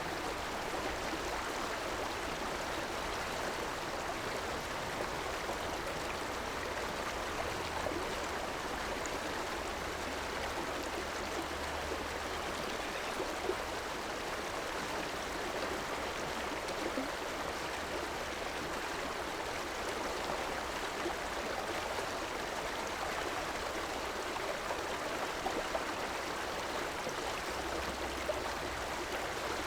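Urban river flowing in a steady, even rush of water, with a faint low rumble coming and going underneath.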